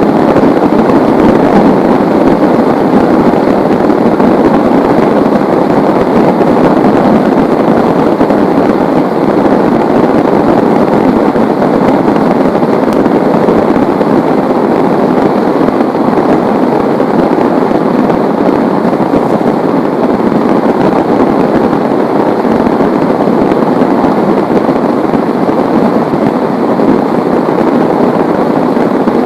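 Heavy rain falling in a steady, dense downpour, an unbroken loud hiss with no thunder claps.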